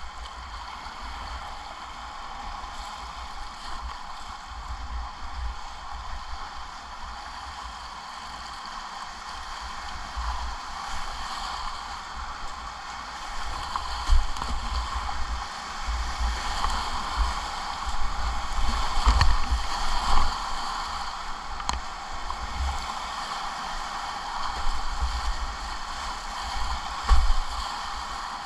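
Rushing whitewater: a steady wash of moving river water with a low, uneven buffeting rumble. It grows louder about ten seconds in, with several louder surges toward the end.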